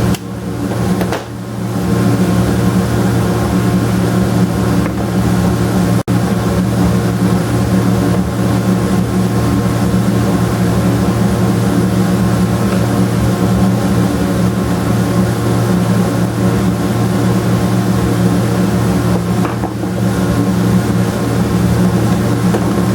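Steady hum of a running electric motor, such as a wood-shop machine or fan. It dips briefly near the start and cuts out for an instant about six seconds in.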